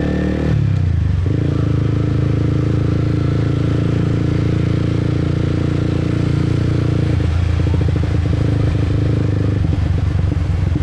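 Motorbike engine running under the rider at a steady pitch, after a brief dip about half a second in, with some rattle later on.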